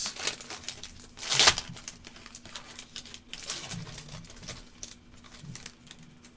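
Trading card pack wrapper crinkling and cards being handled, with one louder crinkle or rip about a second and a half in, then lighter rustles and clicks.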